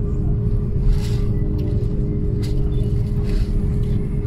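Steady low rumble and constant hum of a running vehicle.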